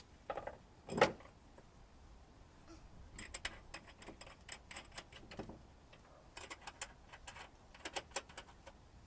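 Sharp metallic clicks and clinks of tools and strut parts being handled, coming in scattered clusters, with one loud knock about a second in.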